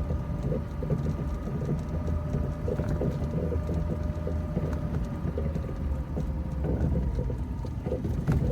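Vehicle running with a steady low rumble and a faint whine, punctuated by irregular hollow metallic banging and thumping knocks, roughly two a second.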